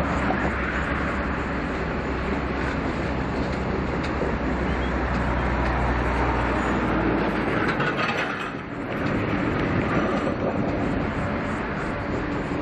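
Two diesel locomotives hauling a stainless-steel passenger train away, their engines running steadily under the wheel and carriage noise. The low engine hum fades out about eight seconds in as the locomotives draw away, leaving the steady rolling noise of the passing carriages.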